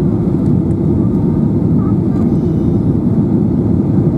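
Loud, steady low rumble inside the cabin of a Boeing 737-800: engine and airflow noise, with no distinct events.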